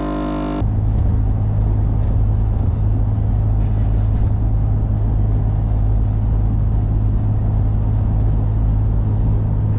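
Vehicle on the road: a steady, loud low rumble of engine and road noise while driving, starting abruptly about half a second in.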